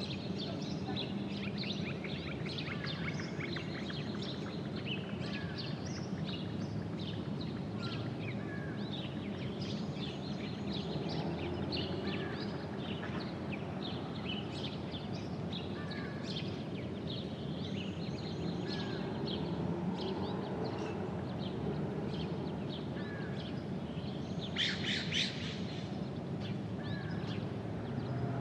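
Many small birds chirping and singing over a steady background hiss, with a denser, louder flurry of calls near the end.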